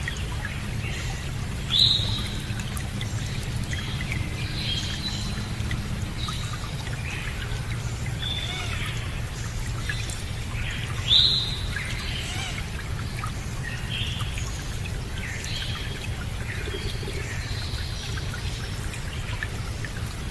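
Water running steadily, with several birds chirping over it; two louder, sharper calls stand out, about two seconds in and again about eleven seconds in.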